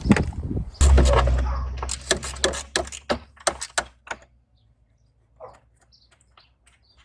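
Quick sharp clicks and knocks of small bolts and parts being handled, with a heavy low rumble about a second in. It goes much quieter after about four seconds, leaving a few faint clicks.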